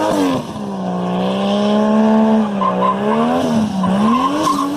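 Race car engine sound effect: a steady engine drone at one pitch, rising briefly and then dipping near the end.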